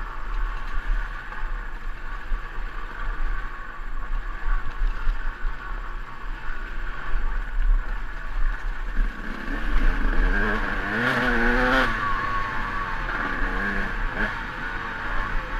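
KTM EXC 200 two-stroke dirt bike engine running on a steep trail descent. About ten seconds in, the revs rise and fall in a few quick throttle blips, with a couple of sharp knocks from the bike over the rough ground.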